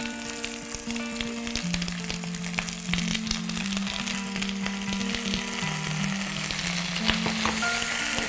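Tomatoes, onion and garlic sizzling in a pan over a gas flame as potato cubes are tipped in, with a few light clicks. Soft background music with slow held notes plays underneath.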